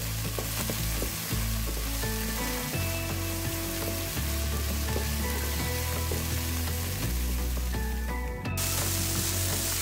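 Diced chicken breast and onion sizzling in hot oil in a nonstick pan, stirred with a wooden spatula. The sizzle breaks off for a moment about eight and a half seconds in, then picks up again.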